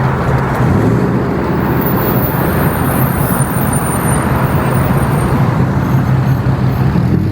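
Road traffic: a motor vehicle running close by, a steady low engine hum under a loud rushing noise of tyres and road.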